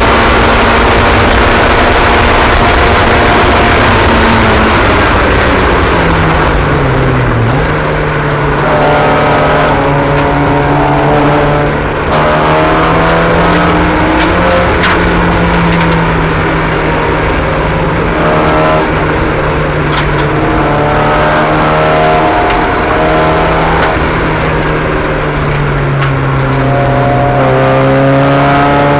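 Several race car engines running on a track at once, their pitch rising and falling as the cars accelerate and ease off through the laps.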